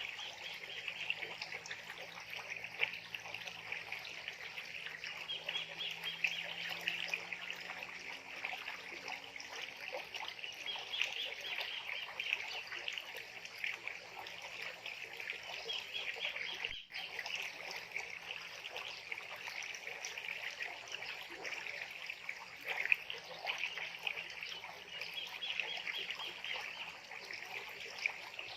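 Wild birds calling in a dense, continuous chorus of rapid, harsh, high chattering calls that swell and fade every few seconds.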